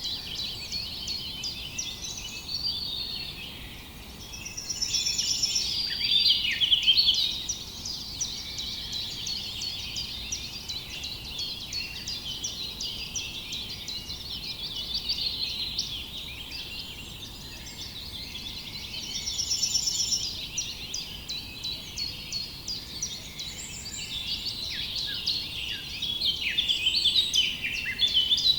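A chorus of many small birds chirping and singing at once, dense overlapping calls and short trills throughout, swelling louder about six seconds in and again near the end.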